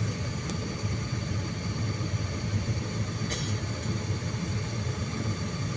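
Airliner cabin noise on the landing approach: a steady low rumble with thin, steady engine whine tones above it. A faint tick comes about half a second in and a short hiss about three seconds in.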